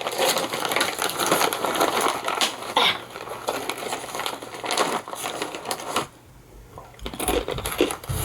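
Crinkling and crunching as a bag of Asiago and cheddar cheese crisps is opened and the crisps are eaten, with a short lull about six seconds in.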